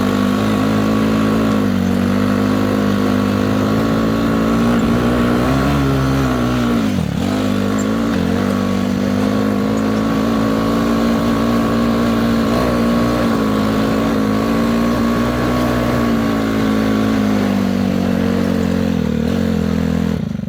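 Tractor engine running steadily and loudly, its pitch dipping briefly a few times as the engine speed changes, most deeply about seven seconds in.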